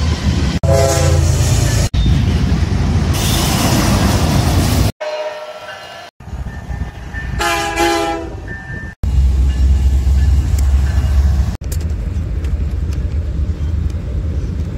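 Diesel freight locomotives passing, in a string of short clips that cut off abruptly one after another: a deep engine rumble with short horn blasts about a second in and again around the middle.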